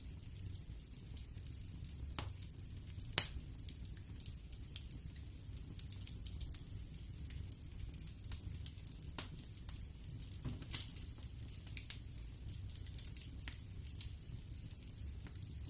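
Wood fire burning in a fireplace: a low steady rumble with scattered crackles throughout and one sharp, loud pop about three seconds in.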